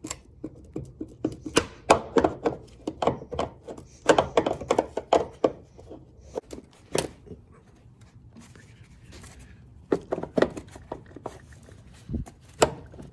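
Several quick runs of sharp metallic clicks and knocks from hand tools and metal parts being worked, with short pauses between runs.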